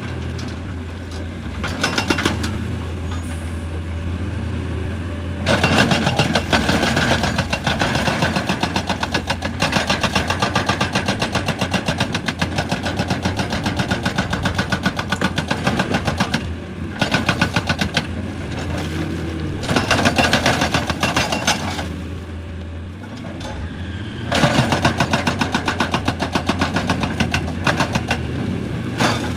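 Excavator's diesel engine running steadily under load, with several long stretches of rapid, dense rattling impacts from rock being broken, easing off to just the engine for a moment about two-thirds of the way in.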